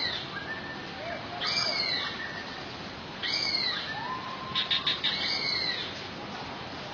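Bird calling over and over: a short, high call that rises and falls, repeated about every two seconds, three times in all, with a lower call and a few clicks in between.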